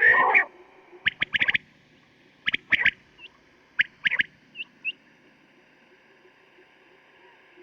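Recorded quail calls: a loud, harsh opening note, then three short groups of sharp, quick notes about a second and a half apart, with a few faint chirps between, and a pause near the end.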